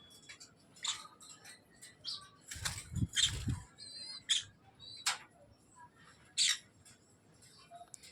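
Caged lovebirds giving short, shrill, scattered chirps, with a bout of wing flapping and a low thump around three seconds in.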